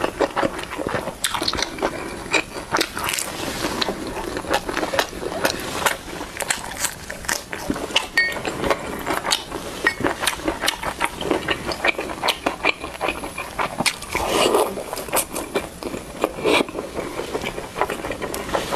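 A person chewing soft steamed buns with wet mouth sounds, many small irregular clicks and smacks.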